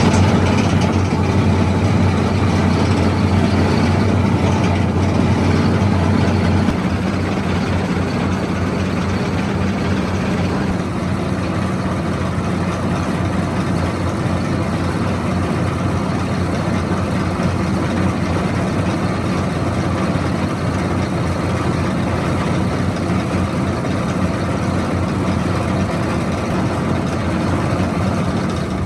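Rice milling machine running loudly with a steady low hum, starting abruptly; a little after six seconds in it settles slightly quieter.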